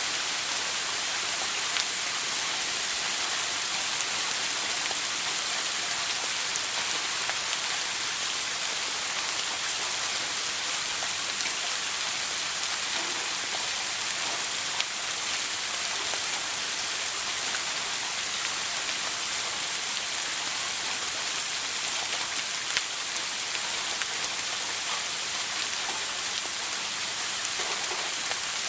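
Shower running: a steady spray of water falling onto a hard surface, an even hiss with a few small scattered drip ticks.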